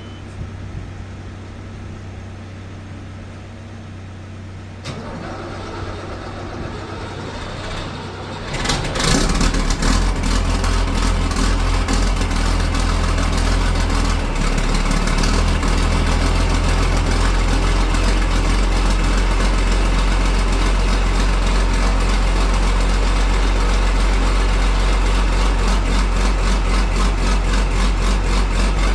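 Ford 8830 tractor's six-cylinder diesel being cold-started below freezing: it turns over for several seconds, catches about nine seconds in, and settles into a steady, evenly pulsing idle.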